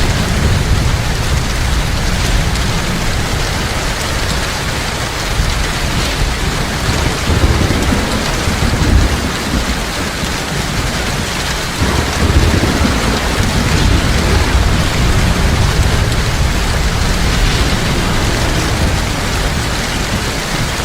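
Heavy rain falling steadily, with low rumbles of thunder rolling through, swelling about seven seconds in and again about twelve seconds in.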